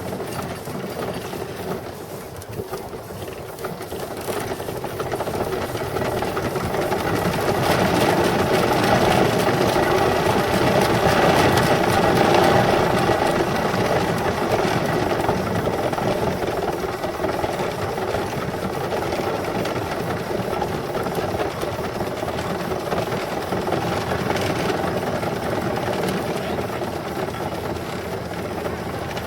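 An engine running steadily with a busy mechanical rattle. It grows louder over the first several seconds and eases off slightly toward the end.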